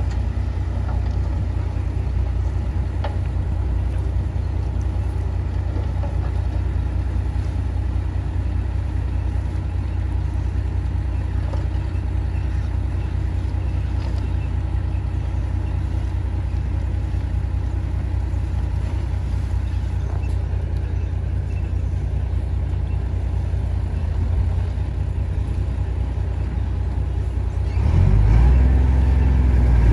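Heavy diesel engine of earthmoving machinery running steadily, then revving up about two seconds before the end.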